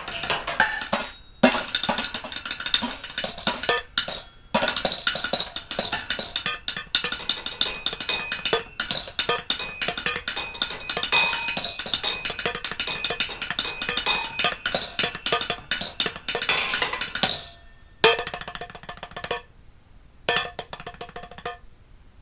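Improvised percussion played on plates: fast, dense clattering strikes with ringing tones that break off briefly twice early on, then thin out to sparse, quieter hits near the end.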